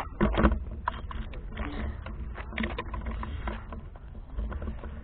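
A bicycle ride heard from a handlebar-mounted camera: irregular knocks and rattles from bumps over a steady low rumble of wind and tyres.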